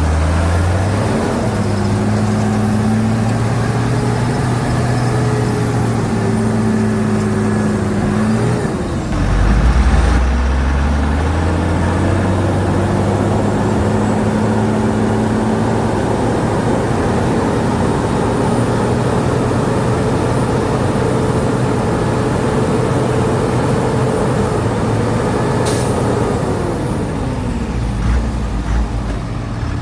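Heavy diesel engine of earthmoving machinery running under load. It drops in pitch about a third of the way in, revs back up, holds steady, then falls again near the end.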